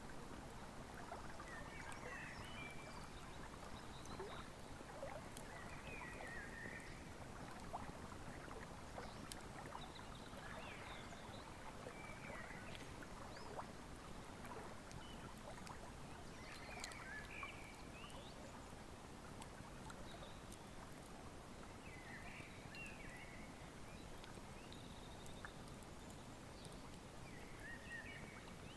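Wood fire crackling with scattered sharp pops over the steady rush of a flowing river. Short high chirps come every few seconds.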